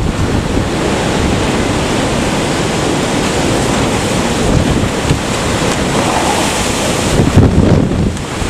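Typhoon-force wind from Typhoon Jebi rushing steadily and loudly, with gusts buffeting the microphone in a heavy low rumble.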